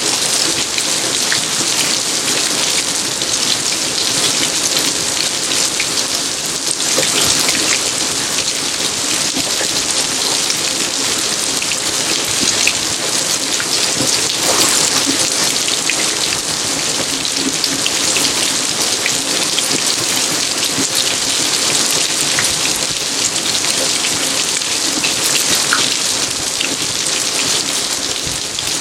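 Steady rain falling: a dense, even hiss of drops, with single drops ticking sharply on hard surfaces.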